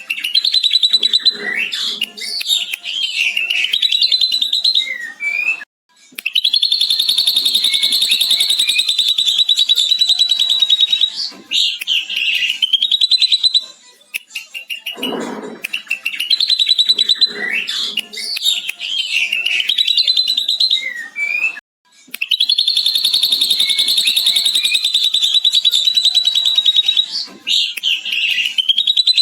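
Ashy drongo singing a mimicked lovebird chatter (ngekek): two long, rapid, high chattering trills of about five seconds each, separated by shorter chirps and whistled notes, in a sequence that repeats.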